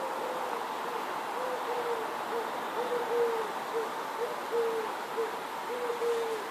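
A bird calling in a run of short, low hooting notes, about two a second, some held a little longer than others, over steady background noise.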